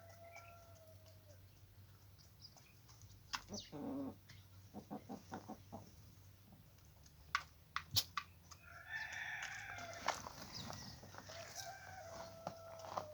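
Chickens clucking and calling, with a longer drawn-out call near the end, and a few sharp knocks or taps about seven to eight seconds in.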